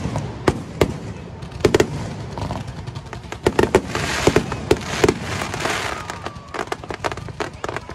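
Fireworks going off in quick succession: a string of sharp bangs from shells bursting, with a dense crackling hiss from about four to six seconds in and a brief falling whistle.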